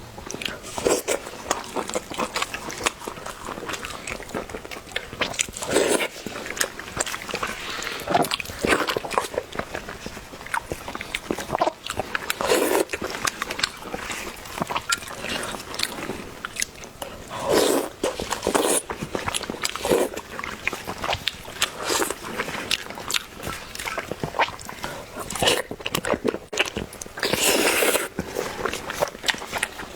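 Close-miked eating: a person chewing and biting food, with many irregular small mouth clicks and louder bursts of chewing every few seconds.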